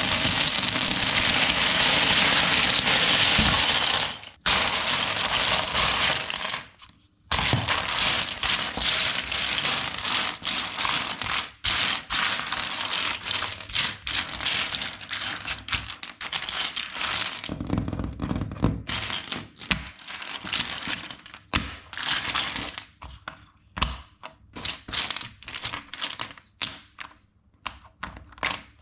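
Plastic LEGO bricks clattering: a dense, continuous rattle for about the first four seconds, then rapid clicks and snaps of bricks being handled and pressed together, growing sparser near the end.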